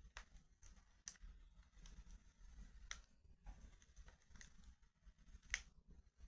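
Faint crackling of a wood fire in a fireplace: scattered sharp pops and ticks from the burning wood, with one louder pop about five and a half seconds in, over a low steady rumble.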